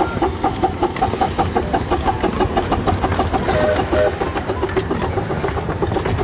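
Small 15-inch-gauge live steam locomotive working along the line during switching, with a quick, steady beat of about five pulses a second.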